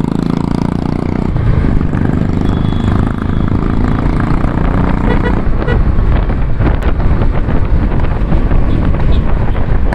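2019 Royal Enfield Classic 350's single-cylinder engine running steadily through its exhaust under way, a loud, low exhaust note.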